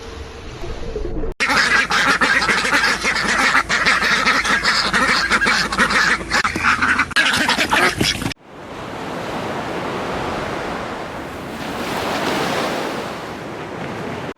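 A flock of ducks quacking, many calls overlapping. It cuts off abruptly about eight seconds in, giving way to a steady rushing noise.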